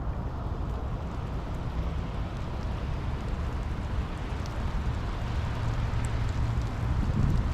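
Steady rain hiss with a heavy low rumble underneath, the rumble growing a little louder near the end, and a few faint ticks of single drops.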